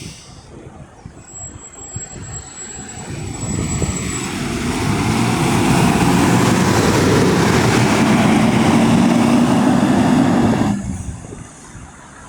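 Scania K230UD double-decker bus's diesel engine pulling away and accelerating past, building over the first few seconds to a loud, steady run, then cutting off suddenly near the end.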